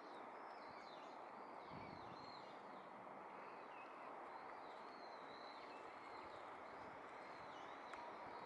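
Small birds chirping over and over in short, arching calls, faint over a steady hiss of distant background noise.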